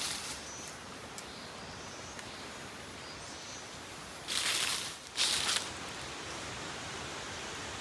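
Steady rushing hiss of a forest creek, with faint high bird chirps in the first half and two short rustles, about four and about five seconds in.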